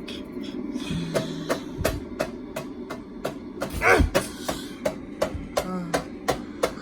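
Ceiling fan running with a steady low hum and an even clicking about four times a second. A short vocal sound comes about four seconds in.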